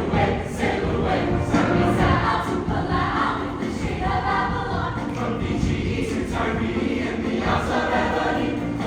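Show choir singing with live band accompaniment.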